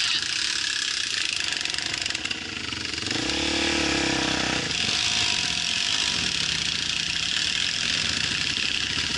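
Off-road motorcycle engine running, with a rev that rises and falls about three seconds in.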